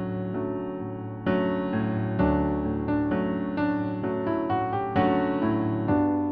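Piano keyboard playing the accompaniment to a vocal exercise: held chords with new notes struck about twice a second, a fresh chord a little over a second in and again near two seconds.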